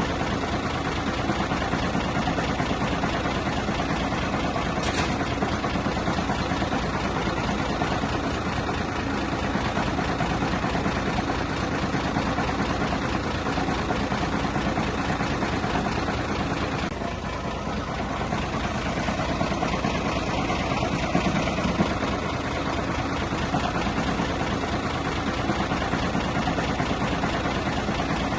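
Diesel engine of heavy earthmoving machinery running steadily, with a fast, even pulse. It dips briefly about two-thirds of the way through, then carries on.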